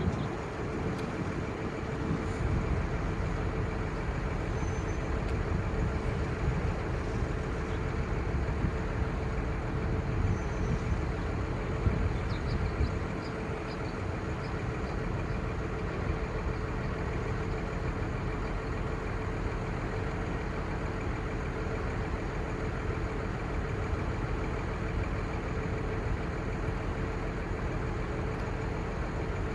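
Diesel truck engine, the crane truck's 5.9L Cummins six-cylinder turbo diesel, running at a steady speed with a constant low rumble and a steady hum.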